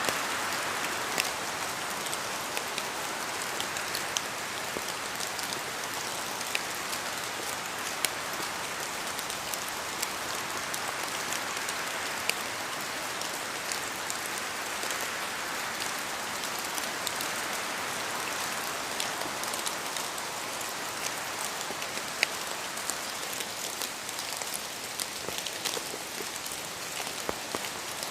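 Steady rain falling: an even hiss with many scattered sharp ticks of single drops landing close by.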